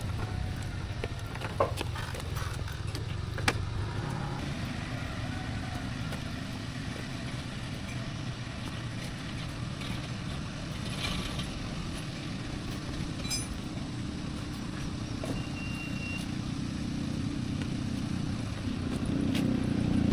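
Steady low rumble of a motor vehicle running, with a couple of sharp knocks about one and a half and three and a half seconds in.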